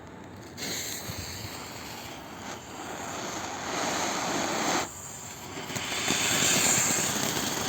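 Small box fountain firework with a gold strobe effect burning: a rushing spray hiss that starts about half a second in and grows louder. It drops out briefly about five seconds in, then comes back stronger.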